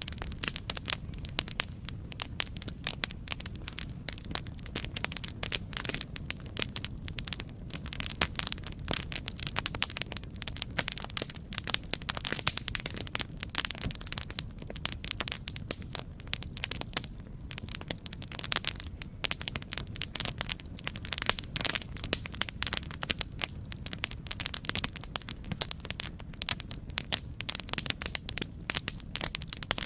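Campfire crackling: a dense run of irregular sharp pops and snaps over a low, steady rumble of flame.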